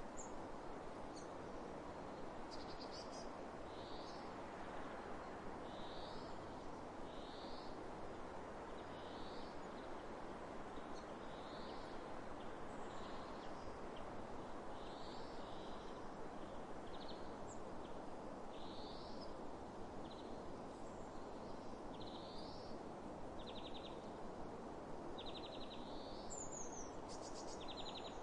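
Steady rush of wind across open fields, with a bird calling over it: a short high note repeated about every one to two seconds. A few buzzy trills come in near the end.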